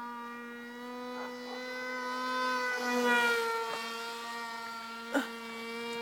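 Homemade foam RC pusher-prop plane's motor and propeller buzzing steadily in flight, getting louder and dropping slightly in pitch about halfway through as it passes. A brief sharp click comes near the end.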